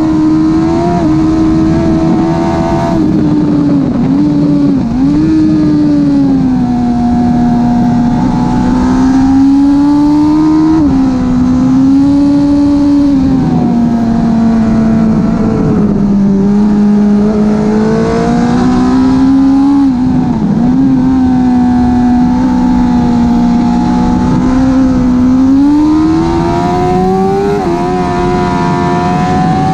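Suzuki GSX-R 1000 K5 inline-four engine at high revs through a slip-on exhaust, heard onboard with wind rush. The engine pitch holds high and dips or jumps sharply several times as gears are changed.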